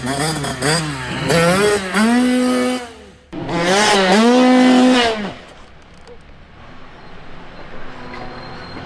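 Youth dirt bike engine revving in quick throttle blips, then two held pulls at high revs, the second one the loudest, as the bike accelerates up a jump ramp. The engine note drops away sharply a little past halfway through, leaving a much quieter background.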